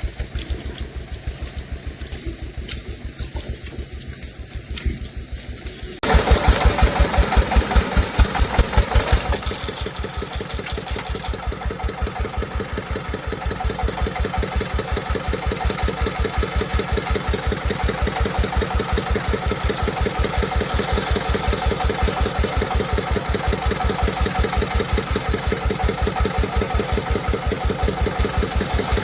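Single-cylinder diesel engine of a farm truck running with an even thumping. About six seconds in it gets louder for about three seconds, then settles back to a steady run.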